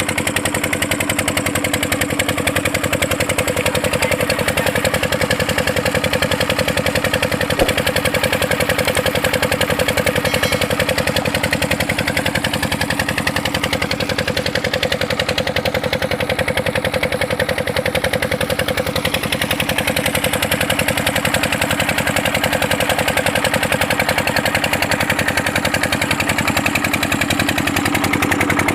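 Water-pump engine running steadily at an even speed, its rapid firing beats coming as a fast, regular chug.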